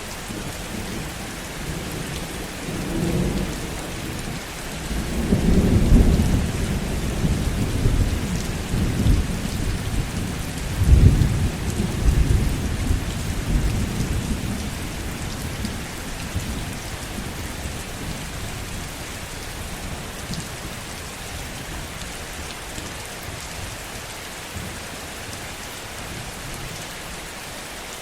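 Heavy rain falling steadily, with a long roll of thunder rumbling through the first half, loudest about six and eleven seconds in, then dying away to rain alone.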